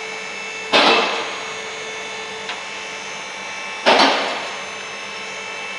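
Two loud knocks about three seconds apart, each fading out over about half a second, over a steady low background hum.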